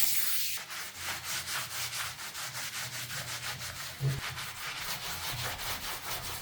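Hand sanding with quick, even back-and-forth strokes, about five a second. A hiss fades out in the first half-second.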